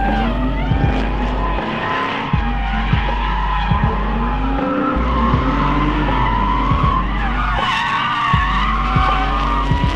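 Ford 302 Windsor V8 drift car running hard through a drift, its revs rising and falling over and over, with tyres squealing throughout.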